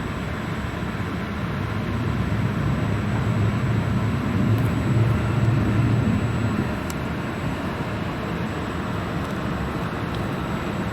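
Regional train running, a steady low rumble and rush that swells a few seconds in and then eases.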